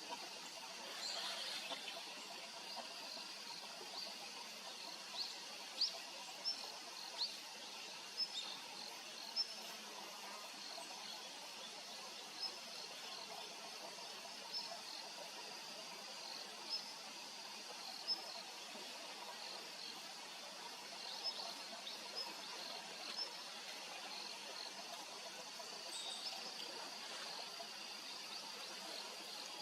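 Faint outdoor ambience of small wild birds giving short, sharp, high-pitched chirps at irregular intervals over a steady hiss. The chirps are thickest in the first third.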